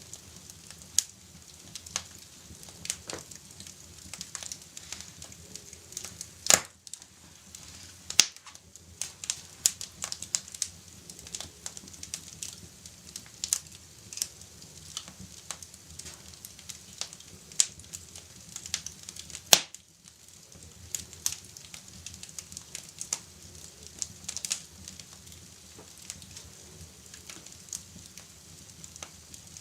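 Wood fire crackling in a fireplace, with constant irregular small pops and two louder snaps about six and a half and nineteen and a half seconds in, over a steady soft hiss of rain on a window.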